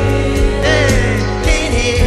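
Live gospel worship music: a band with held bass notes and cymbals, with a singer's voice bending through short melodic phrases over it.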